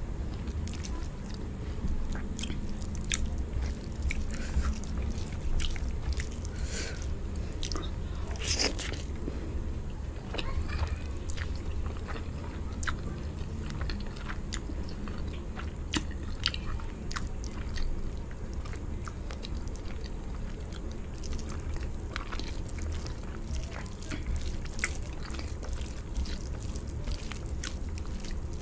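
Close-miked chewing and wet mouth sounds of someone eating rice with palava sauce and chicken by hand, full of small sharp clicks and smacks, over a steady low hum.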